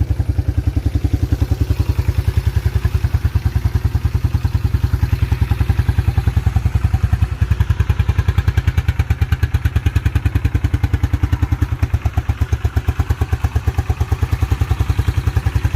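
1987 Yamaha Moto-4 350 (YFM350ER) ATV's single-cylinder four-stroke engine idling steadily with an even, regular beat. It runs smoothly, a sign of an engine in good health.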